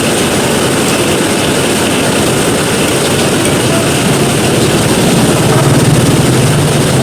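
Steady, loud roadside din of heavy rain and passing traffic, with a low engine rumble swelling about five seconds in.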